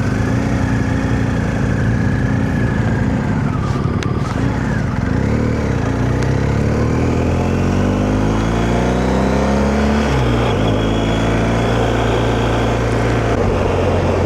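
Motorcycle engine under way, with wind and road noise on a helmet microphone. The engine note rises steadily, then drops suddenly about two-thirds of the way through as the bike shifts up a gear.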